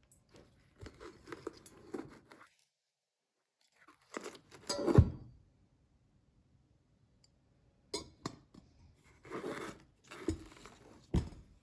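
Crunchy rustling noise in three bursts, with sharp knocks mixed in and a loud knock about five seconds in.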